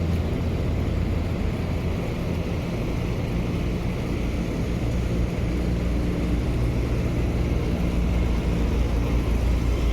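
Coach bus engine running with tyre and road noise: a steady low drone that holds even throughout.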